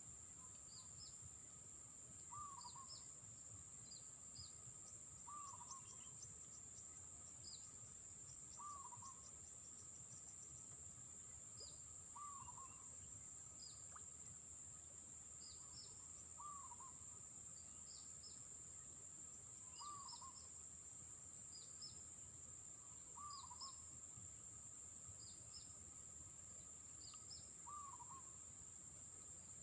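Faint bird calls: one bird repeats a short, curved double note about every three to four seconds, while other birds give brief high chirps. A steady high-pitched drone runs underneath.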